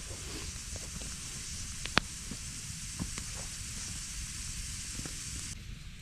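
Campfire crackling, with a steady high hiss and a few sharp pops; the loudest pop comes about two seconds in, and the hiss cuts off near the end.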